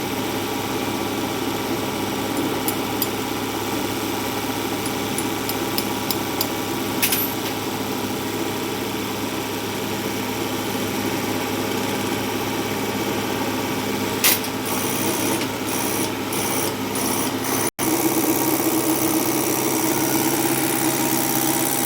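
Mahindra tractor's diesel fuel injection pump running steadily under test, with a steady mechanical hum. There are sharp clicks about a third and two thirds of the way in, and a brief break near the end, after which the hum is a little louder.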